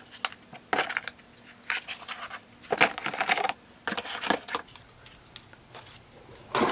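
Packaging and stock being handled and unpacked: short bursts of rustling and clattering, about one or two a second, easing off in the last couple of seconds.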